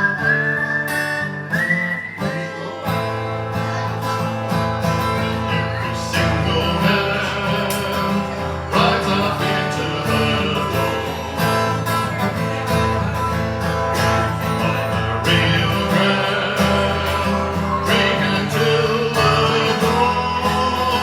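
Acoustic guitar strummed through an instrumental break of a live country song, with a high held melody line in the first two seconds.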